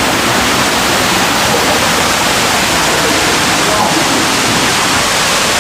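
Waterfall inside a rock cave: a steady, loud rush of falling water.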